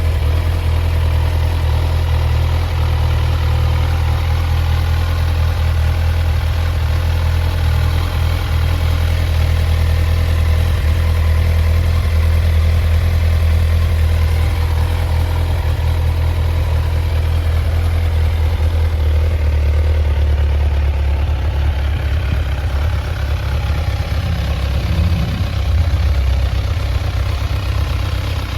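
2016 Kawasaki Z1000's liquid-cooled inline-four engine idling steadily. Its idle note drops slightly about twenty seconds in.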